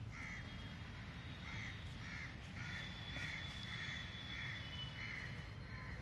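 A bird calling in a steady series of short calls, a little under two a second, over a low background rumble.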